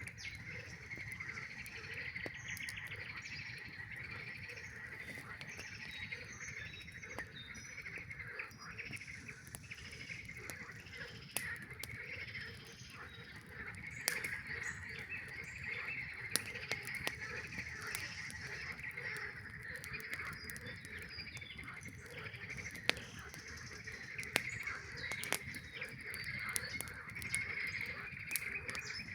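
A dense chorus of frogs calling continuously, with a campfire crackling and giving off sharp pops now and then.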